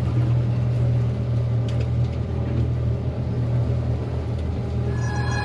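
Boat's outboard motor running steadily, a low hum with rushing wind and water noise over it. Music fades in near the end.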